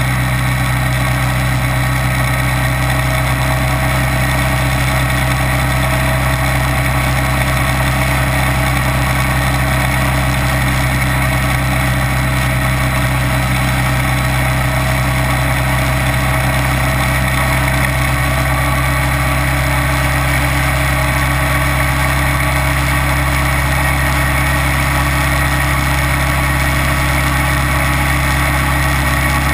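Kawasaki Vulcan 900's V-twin engine running at a steady, unchanging engine speed.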